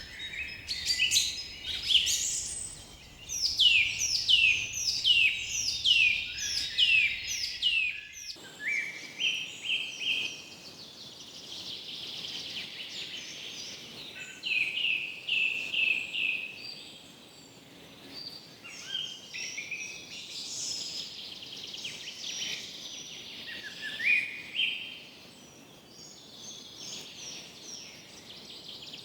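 Songbirds singing and calling in a forest: first a run of about a dozen loud falling notes, roughly two a second, then a mix of shorter chirps and trills from several birds. A faint low rumble underneath cuts off suddenly about eight seconds in.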